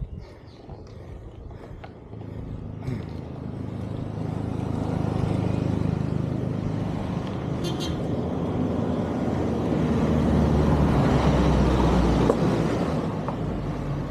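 Motor vehicle on the road, its engine and road noise growing steadily louder for about ten seconds, then easing slightly.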